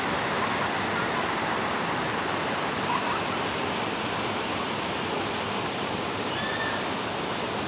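Steady rush of running water, even throughout, with a faint high steady tone above it.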